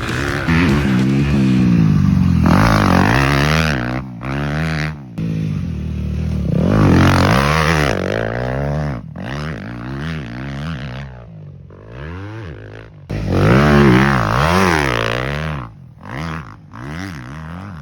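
Dirt bike engines revving up and dropping back again and again, broken by sudden cuts.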